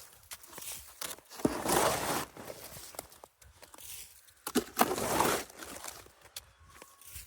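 Heavy, crusty snow that has thawed and refrozen crunching in three long swishes about three seconds apart, with small clicks and crackles between them.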